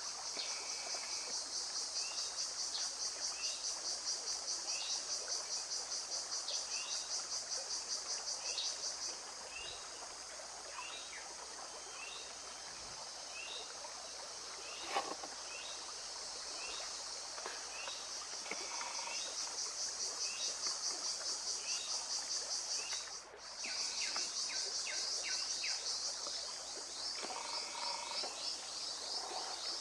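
Forest ambience: a steady, rapidly pulsing high-pitched insect drone, with many short repeated bird chirps beneath it. The drone fades back for a while in the middle and cuts out for a moment about two-thirds of the way through.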